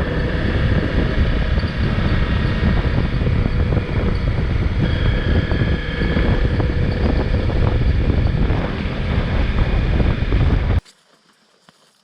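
Motorcycle engine running while riding, half buried under heavy wind buffeting on the microphone; the sound cuts off suddenly near the end.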